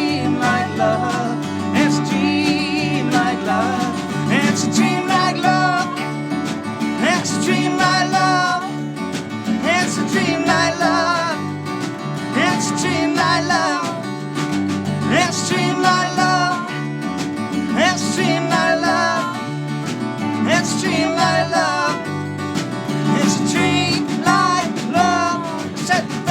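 A band playing a song live, with guitar and a singing voice over it.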